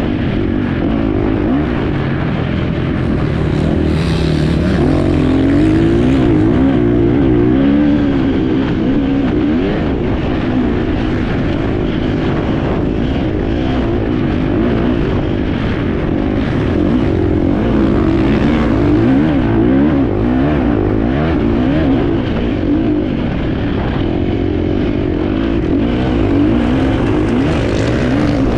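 Enduro motorcycle engine heard from on board, its revs rising and falling continually as the rider works the throttle over the course.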